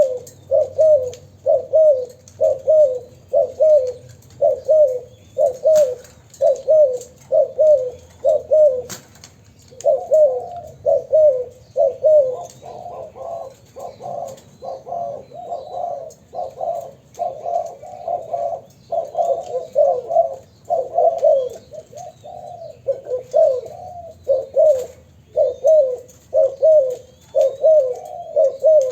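Two young spotted doves cooing over and over, short coo notes at about one and a half a second, with a brief pause about nine seconds in; through the middle stretch their calls overlap densely.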